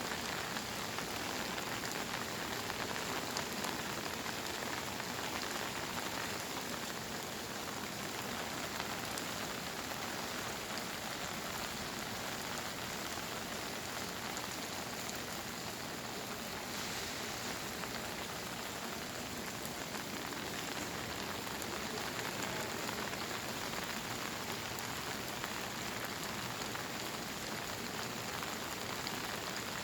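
Steady monsoon rain falling and pattering on surfaces, an even downpour without pauses.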